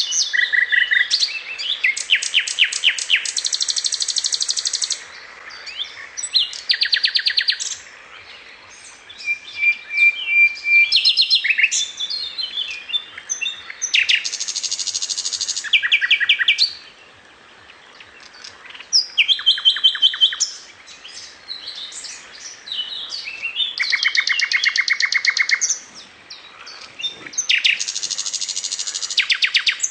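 Songbird singing in bouts of fast trills of rapidly repeated high notes mixed with chirps, each bout lasting a few seconds, with short pauses between them.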